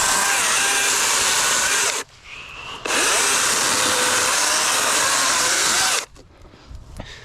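DeWalt 60-volt brushless battery chainsaw with a 16-inch bar cutting wood in two bursts, the first ending about two seconds in and the second running about three seconds after a brief spin-up. It stops about six seconds in, leaving light knocks and clicks.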